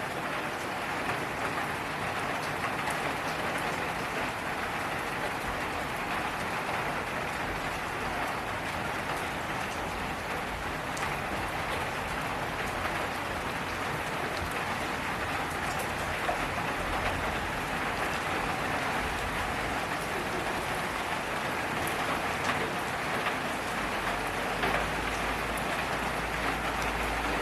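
Steady rain falling on surfaces: a dense, even hiss with scattered individual drop ticks. A faint low rumble comes in near the end.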